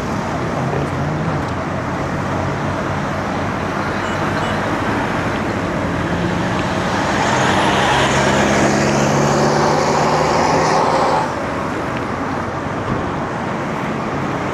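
Road traffic noise with motor vehicle engines running close by. An engine hum swells around the middle and drops off suddenly about three-quarters of the way through, as a vehicle passes.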